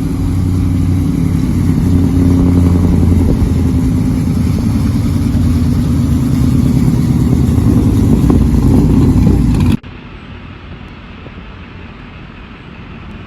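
A pickup truck's loud straight-pipe exhaust running, with a steady low engine drone. It cuts off abruptly about ten seconds in, leaving quieter road and wind noise.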